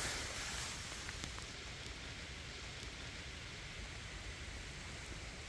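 Steady rain falling in a forest: an even soft hiss with a few scattered drop ticks, a little louder at the start and settling within about a second.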